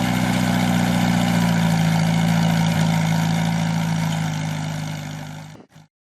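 Small engine of a homemade tiller running at a steady speed, then fading out near the end.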